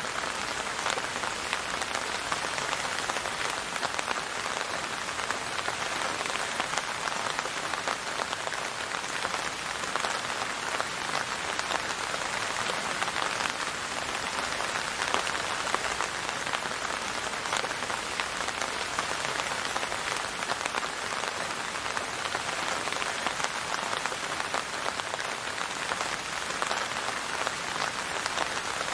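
Steady rain falling on a surface, a dense even patter of drops with no letup.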